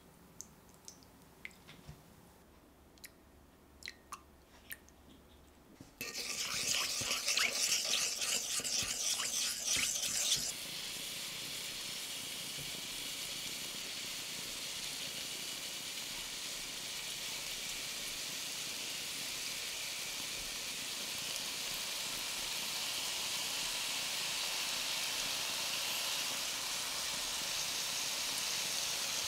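A few faint drips and ticks as dark soy sauce is measured into a small pan. About six seconds in, duck breast, new potatoes and carrots start sizzling in a hot stainless sauté pan: a crackling sizzle for about four seconds that settles into a steady hiss while sauce is brushed over the duck.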